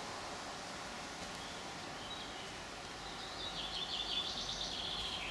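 Steady background hiss, with a small bird twittering in quick high chirps from about three and a half seconds in.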